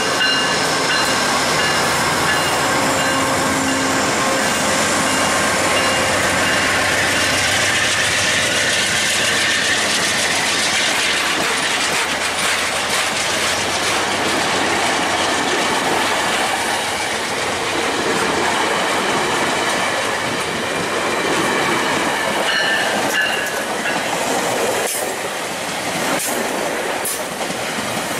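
Genesis P42 diesel-electric passenger locomotive accelerating past, its steady engine and blower tones fading over the first several seconds, followed by passenger coaches rolling by with continuous wheel-on-rail noise. Near the end come a brief wheel squeal and a few sharp clicks of wheels over rail joints as the train pulls away.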